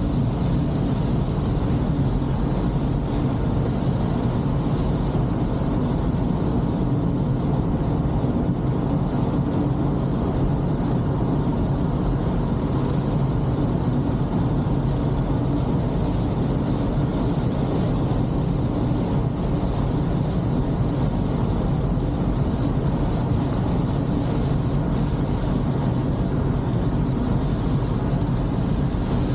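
Toyota Corolla driving at a steady pace on a wet road: an even, low hum of engine and tyre noise with a hiss of water from the tyres, with no changes in pitch or level.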